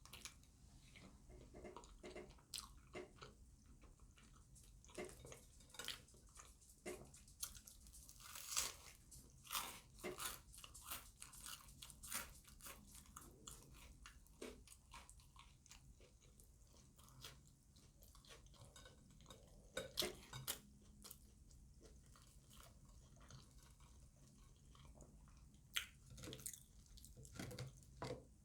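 A person chewing manicotti with irregular wet mouth clicks and smacks, busier and louder at times, with pauses between.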